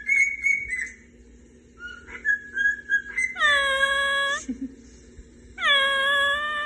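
A pet parrot whistling short, thin notes, then giving two long, level calls of about a second each.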